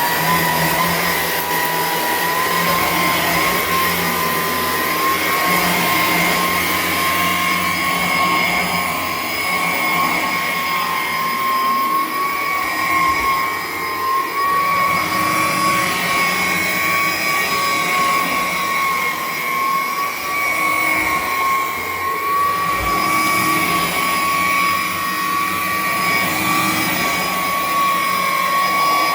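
Electrolux Discovery 3 upright vacuum cleaner switched on and running steadily, its motor giving a high, even whine over a rush of air.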